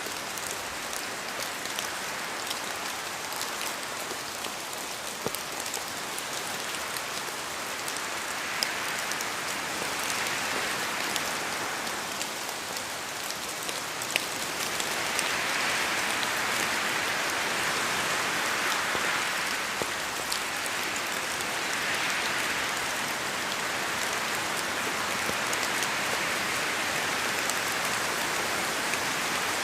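Steady rain falling in a forest, a dense hiss with many scattered drop ticks, swelling louder several times and heavier from about halfway through.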